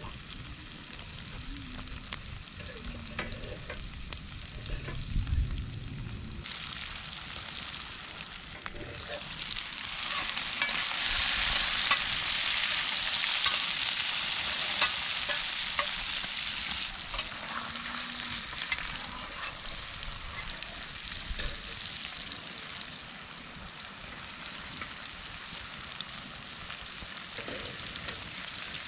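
Steaks and peppers frying in pans over a campfire, a steady sizzle. It grows louder a few seconds in, is loudest about ten to seventeen seconds in, then eases back.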